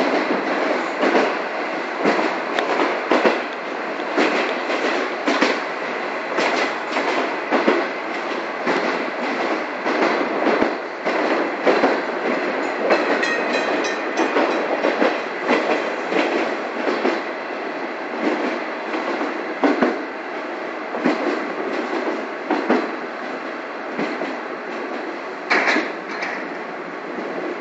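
Passenger train rolling along, heard from inside the coach: a steady rumble and rush of wheels on rail, broken by frequent irregular clicks and knocks as the wheels cross rail joints. A short, sharper burst stands out near the end.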